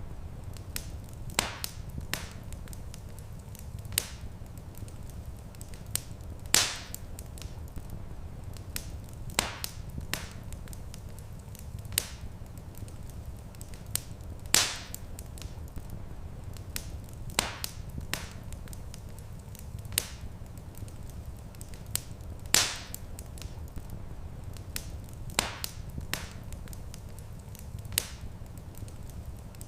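Wood fire crackling: sharp pops every second or two, a few much louder than the rest, over a steady low rumble.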